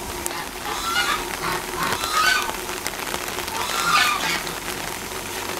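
Waterfowl calling: three loud calls spaced about a second or two apart, over a steady hiss of rain.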